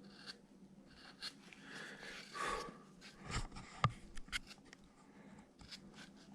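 A small number 11 gouge, 3 mm wide, cutting a line into a wooden carving: faint scraping strokes and light clicks, with a sharper tick about four seconds in.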